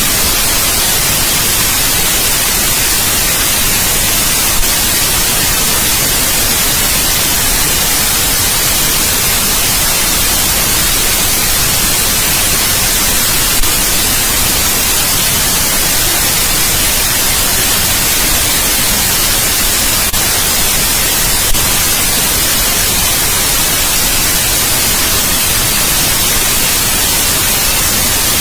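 Steady white noise played as a sleep sound: an even, constant hiss strongest in the high end, with a few faint clicks.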